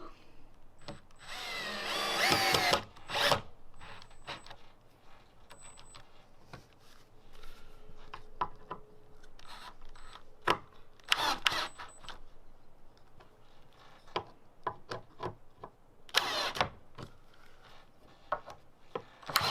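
Power drill driving screws into the gazebo frame: one long run about a second in, a short burst near the end, and scattered clicks and knocks in between.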